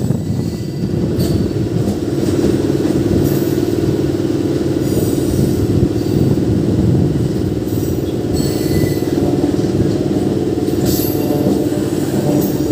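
MEMU electric train running along the track, heard from aboard: a steady rumble of wheels on rail with a constant hum, and short high-pitched squeals and clicks every few seconds as it crosses the yard's points.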